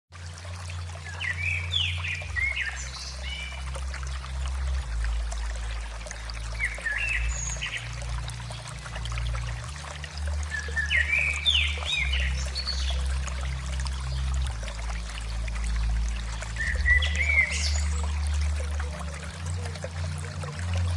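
Birdsong: short chirping phrases repeating about every five seconds over a steady hiss like trickling water, with a low hum underneath that shifts in steps.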